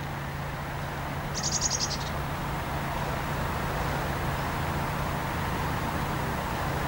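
A small bird's short, high, rapidly pulsed trill about a second and a half in, over a steady low hum and outdoor background noise.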